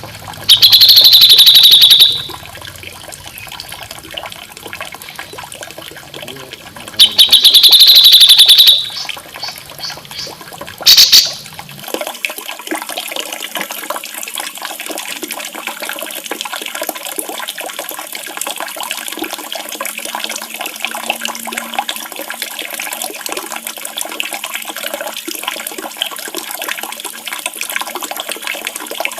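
Steady running, splashing water with a songbird's loud, rapid trilling call twice, each about a second and a half long, and a short third burst about 11 seconds in. About 12 seconds in, the water sound loses its low rumble and turns thinner.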